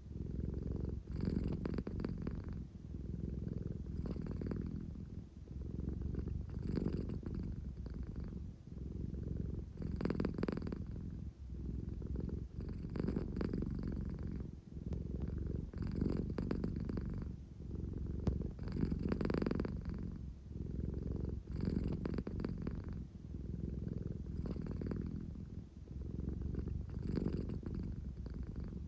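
An American Shorthair cat purring steadily, a low rumble that swells and dips in a regular cycle about once every three seconds, in and out with its breathing.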